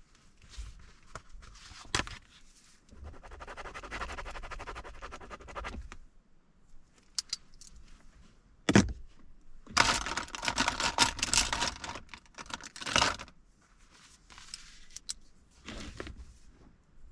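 Close rustling and clicking handling noises, with a single sharp knock about nine seconds in, followed by a louder stretch of crackly rustling lasting about three seconds.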